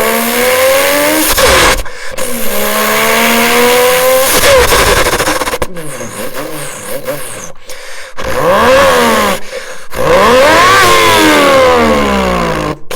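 A person imitating a turbocharged sports car with his voice: the engine note climbs in pitch again and again, broken by short gaps like gear shifts. After about eight seconds the pitch swings up and down, like revs being blipped.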